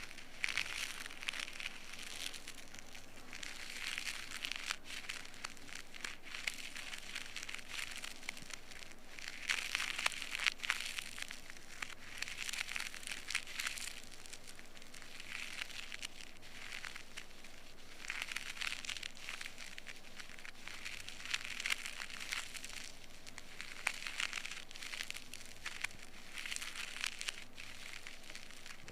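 Close crackling and scratching of an ear-pick scraping earwax inside the ear canal. It comes in repeated strokes a second or two long, with scattered small clicks.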